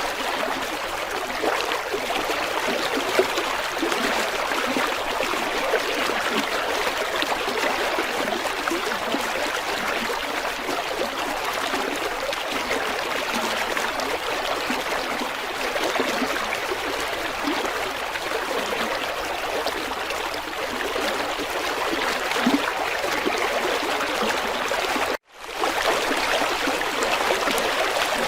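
River water flowing steadily, interrupted by a split-second gap of silence about 25 seconds in.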